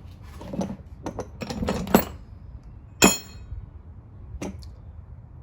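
Metal-on-metal clanks and clinks of hand tools and loosened cylinder head bolts: a cluster of knocks in the first two seconds, a sharp ringing clank about three seconds in, and a lighter clink near the end.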